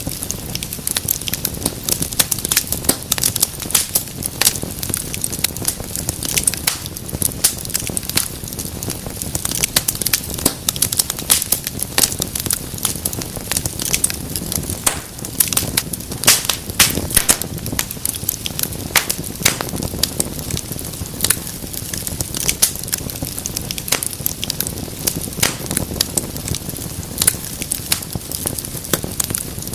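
Wood fire in a fireplace burning with dense, irregular crackles and pops over a low steady rumble of flame.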